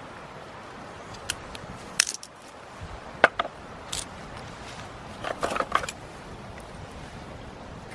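Light metallic clinks and knocks, a few single strikes with short ringing and then a quick rattle of several together, as metal items are handled, with a steady hiss behind.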